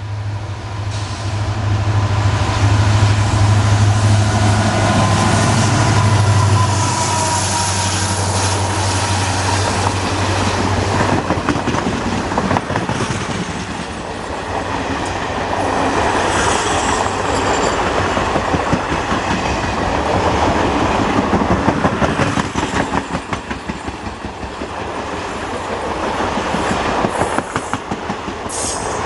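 WDP4D diesel locomotive hauling a passenger express past at speed: the engine's loud low drone comes in and dominates for about the first ten seconds, then the coaches run by with a rapid clickety-clack of wheels over rail joints.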